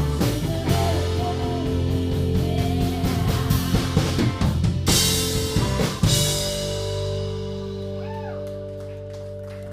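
Live rock band with drum kit and electric guitar playing the closing bars of a song: busy drumming with a big cymbal crash about five seconds in, then a final held chord ringing out and slowly fading.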